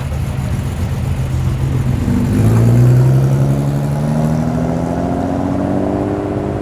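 A car engine accelerating away, its pitch rising steadily over several seconds as it pulls off.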